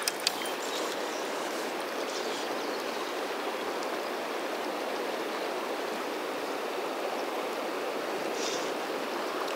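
Steady rush of a fast-flowing river's current, with one brief sharp click just after the start.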